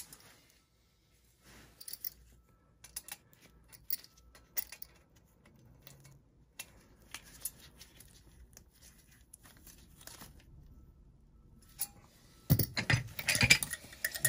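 Scattered light clicks and metallic clinks of hand tools and metal furnace parts being handled, turning into louder, busier metal clattering near the end.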